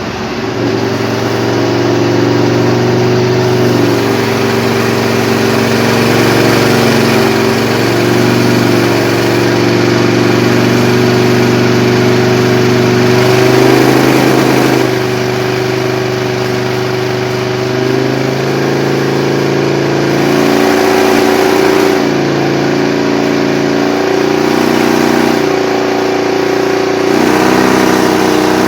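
Aprilia RSV 1000 R Tuono's 998 cc 60° V-twin running loud through a Leovince aftermarket exhaust. It is held at fairly steady revs, and the pitch shifts up or down in steps every few seconds.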